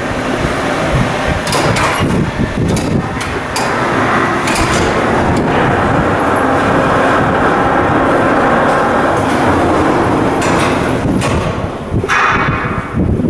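Shipyard construction noise: a steady loud noise with several sharp metallic knocks in the first few seconds and a couple more late on.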